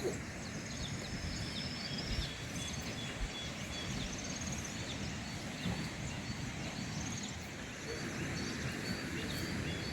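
Steady rural outdoor background noise, an even low rush, with many faint, short, high chirps scattered through it.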